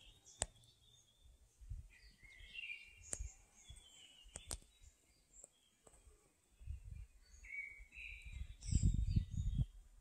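Small birds chirping in the forest canopy, in short calls, with a few sharp clicks. Low microphone rumble comes and goes and is loudest about nine seconds in.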